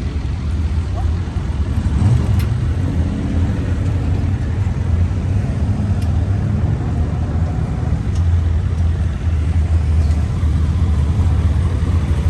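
Deep, steady engine rumble of cars idling at a drag strip, holding an even pitch with no revving.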